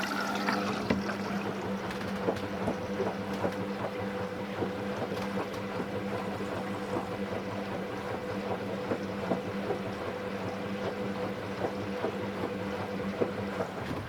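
Hoover Vision Dynamic washing machine drawing in water through the detergent drawer's conditioner compartment during its test cycle: water rushing and trickling in over a steady hum. The sound drops away right at the end as the fill stops.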